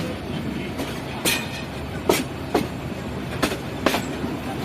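Passenger train running along the track, heard from inside a carriage: a steady rumble broken by sharp clacks of the wheels over rail joints, several coming in pairs.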